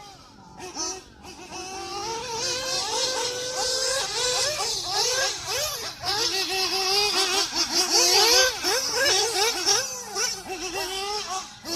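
Small nitro glow engine of a 1/8-scale RC buggy running at high revs, its pitch rising and falling rapidly as the throttle is worked. It starts quiet and grows louder over the first couple of seconds.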